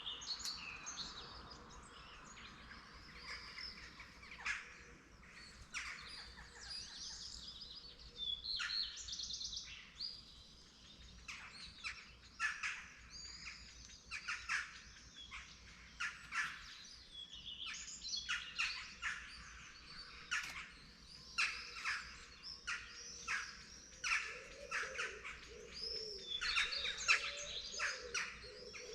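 Dawn chorus of several songbirds: a dense run of quick chirps, trills and short phrases overlapping one another, with no gaps.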